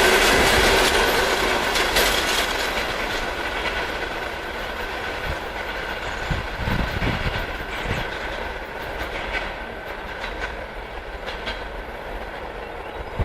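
Railway cars rolling past on the track, with the clickety-clack of wheels over rail joints and a thin wheel ringing, fading steadily as the train draws away.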